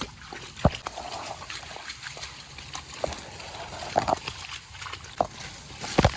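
Water splashing and sloshing in shallow marsh water, with a few sharp, irregular splashes a second or so apart; the loudest comes near the end.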